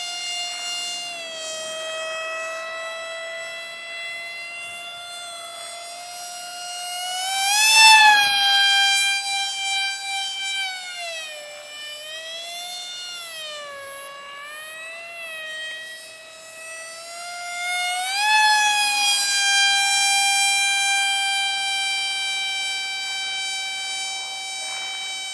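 Electric motor and propeller of a cardboard RC airplane whining, its pitch rising and falling with the throttle. It is loudest about eight seconds in, where the pitch jumps up and drops sharply, and it rises again around eighteen seconds in.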